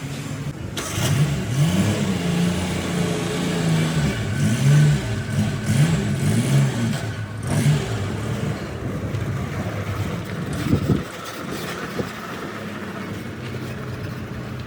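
A vehicle engine revving up and down several times, then settling to a steadier run about eight seconds in.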